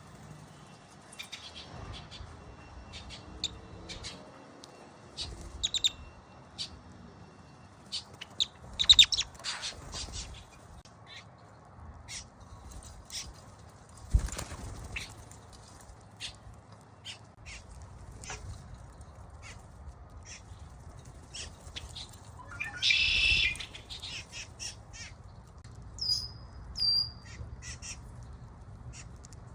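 Birds calling: many short high chirps and clicks scattered throughout, a louder harsh call lasting about a second about two-thirds of the way through, and two whistled notes near the end.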